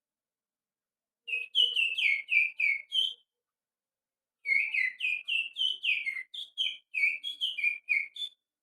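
Finger whistling imitating the song of a white-rumped shama: two phrases of quick, mostly falling whistled notes, a short one and then a longer one about four seconds long after a brief pause.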